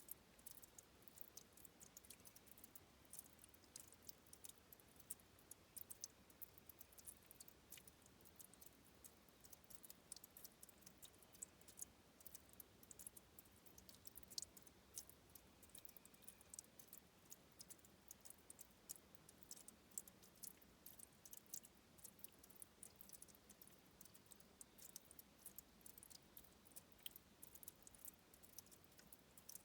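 A faint trickle of spring water at a stream's source: a steady patter of tiny, irregular high-pitched clicks and plinks over a soft hiss.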